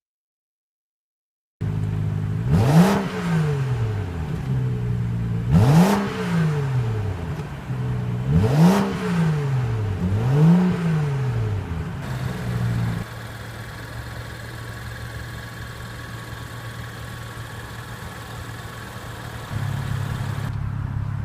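BMW 435i's 3.0-litre turbocharged straight-six running, blipped four times with the pitch rising and falling back each time, then settling to a quieter steady idle. The engine sound starts abruptly a second and a half in.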